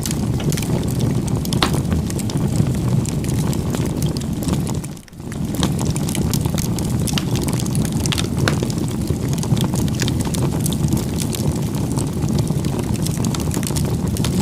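Wood fire burning: a steady low rumble of flames with scattered sharp crackles and pops. The sound briefly drops away about five seconds in, then resumes.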